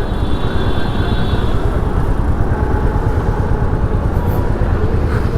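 Royal Enfield Meteor 350 motorcycle riding on the road, its single-cylinder engine running steadily under heavy wind rumble on the helmet-mounted microphone.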